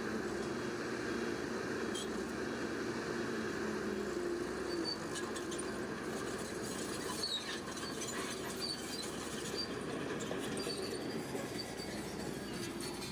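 Crawler bulldozer working, its diesel engine running steadily, with scattered high squeaks and clicks from about five seconds in, typical of steel tracks.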